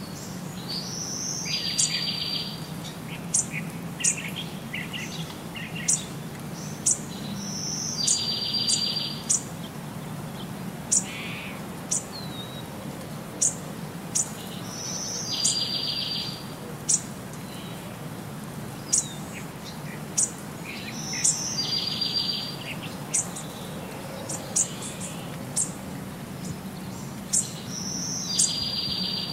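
Birds calling: a short high note followed by a buzzy trill about a second long, repeated five times at intervals of six to seven seconds, with short sharp high chirps in between.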